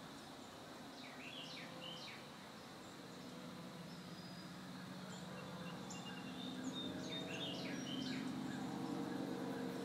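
Quiet outdoor ambience: a small bird gives two quick flurries of chirps, about a second in and again about seven seconds in, over faint hiss and a low steady hum that grows louder in the second half.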